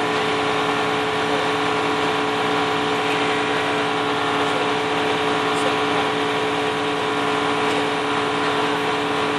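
Aerial ladder truck's engine running steadily, a constant hum that holds one pitch without revving up or down.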